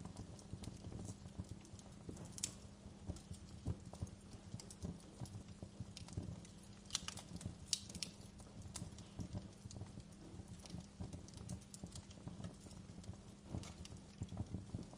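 Wood fire crackling in a fireplace: faint, irregular pops and snaps over a low steady rumble, with a few sharper pops.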